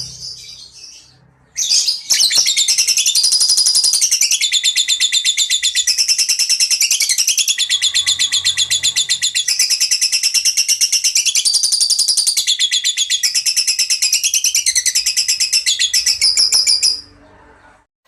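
A songbird sings one long, very fast, high-pitched trill of rapidly repeated notes, shifting up and down in pitch in steps. It starts about a second and a half in and breaks off near the end.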